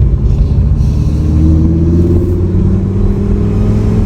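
Car engine running loud, its pitch rising slowly as it picks up revs, then holding steady.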